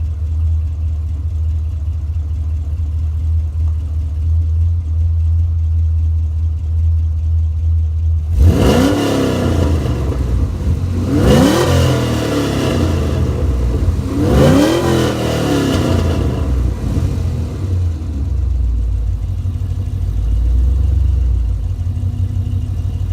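Chevrolet Camaro SS V8 idling steadily, then revved three times about eight, eleven and fourteen seconds in, each rev rising and falling back before it settles to idle again. A sound check run just after an oil change to make sure the oil is in the engine.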